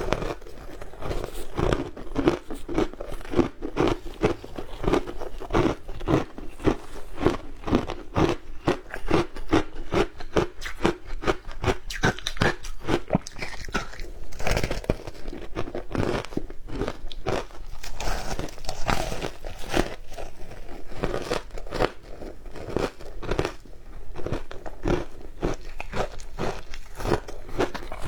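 Shaved ice being bitten and chewed close to the microphone: a continuous run of crisp crunches and crackles.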